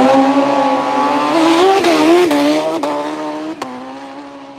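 Drag racing motorcycle engine at high revs, its pitch climbing at the start and then holding, fading steadily into the distance over the last couple of seconds, with a few sharp clicks.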